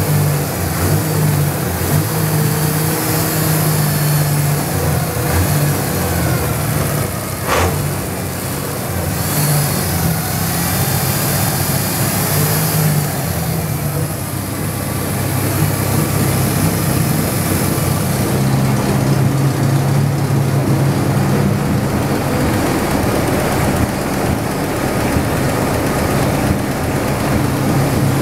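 Chevrolet Opala's six-cylinder engine idling loudly through a large exhaust, warming up after a start.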